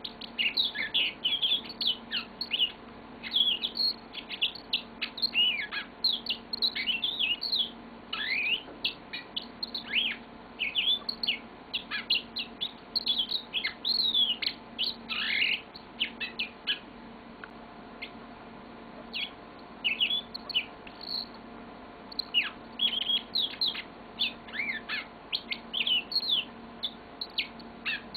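Yellow-fronted canary singing a long, fast song of chirps and quick downward-sweeping notes, breaking off for about two seconds around the middle before starting again.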